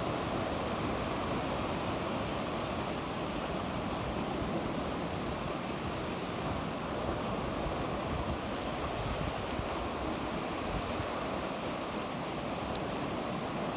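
Sea waves washing onto the shore in a steady, even wash of surf, with some wind on the microphone.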